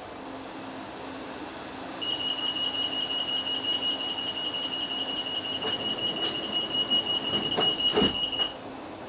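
Class 458 train's door-closing warning: a high-pitched rapid beeping that starts about two seconds in and runs for roughly six seconds. Several knocks and a louder thud come near its end.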